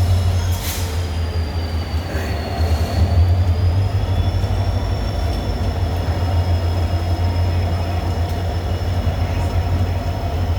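Express passenger train running, a heavy steady low rumble with a thin high squeal over it that dips a little in pitch about three seconds in and then comes back up.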